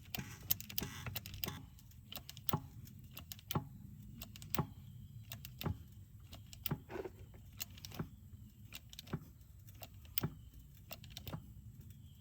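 Regular sharp metallic clicks, about one a second: a hydraulic jack being pumped stroke by stroke to press a bent backhoe rim straight.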